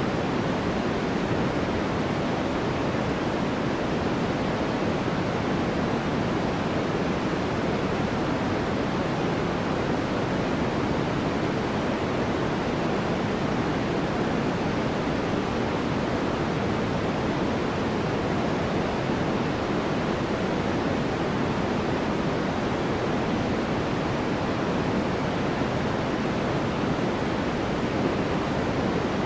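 Steady, unchanging synthetic white noise for sleep: an even hiss with most of its weight in the lower middle and softer at the top, with no breaks or events.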